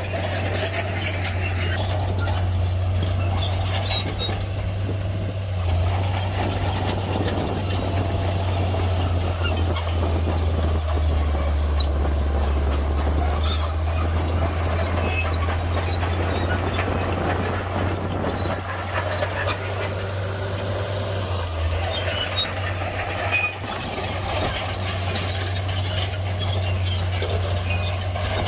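Shantui heavy bulldozer's diesel engine running steadily with a deep drone, with scattered clanks and crackles over it from the machine working rock.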